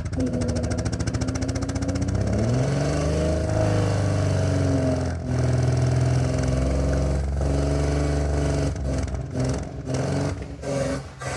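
Hyundai Tiburon engine revved from idle about two seconds in, held high for several seconds, then dropping back to an uneven idle near the end. The engine is misfiring and won't rev any higher.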